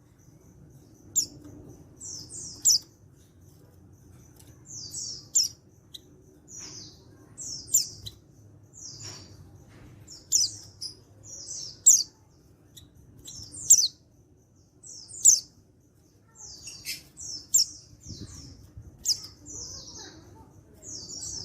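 Male white-eye (pleci) calling: short, high chips about once a second, many of them sharp downward-sweeping notes.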